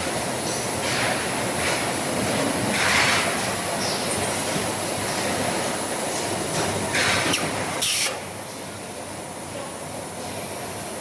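Wire-on-tube condenser folding machine and its robot workcell running: a steady mechanical noise broken by several short pneumatic air hisses. The noise drops to a quieter level about eight seconds in.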